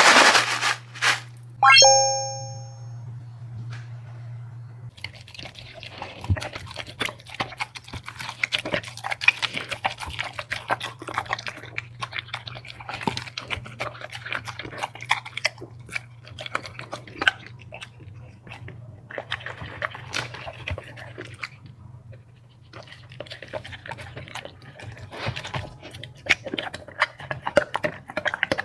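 A dog chewing and crunching food, with dense irregular crunches from about five seconds in and a couple of short pauses. Near the start there is a loud knock followed by a short ringing ding.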